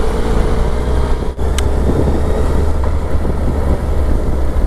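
Suzuki Hayabusa's inline-four engine running steadily as the bike climbs uphill, with a brief dip and a short click about a second and a half in.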